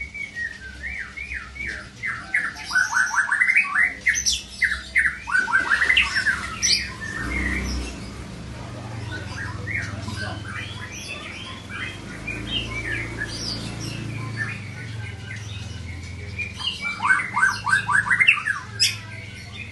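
Songbirds chirping and singing in rapid runs of short notes, busiest in the first seven seconds and again near the end, with scattered calls between.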